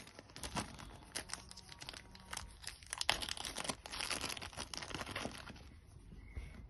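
Dense, irregular small clicks, scrapes and rustles of hands handling small plastic and metal RC car parts while threading steering parts together.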